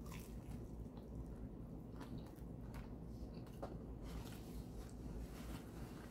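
A person chewing a mouthful of toasted patty melt sandwich (beef patty and melted cheese), close to the microphone, with faint wet mouth sounds and small scattered clicks.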